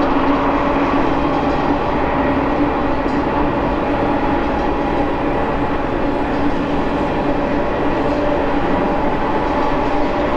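Double-stack container cars of a BNSF freight train rolling past on a curve as it descends a grade: a steady rumble of wheels on rail with a steady droning tone over it.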